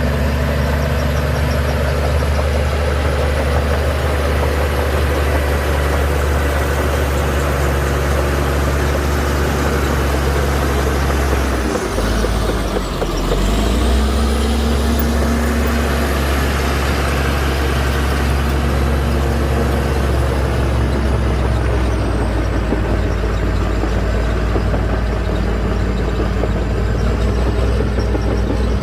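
Heavy diesel engine of a LiuGong bulldozer running steadily under load. About twelve seconds in, the note drops briefly and changes, then it picks up again. A faint high whine rises and falls above it.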